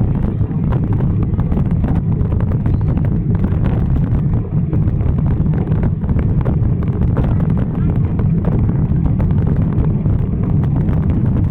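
Wind buffeting the microphone of a rider cycling along: a loud, steady low rumble with no break.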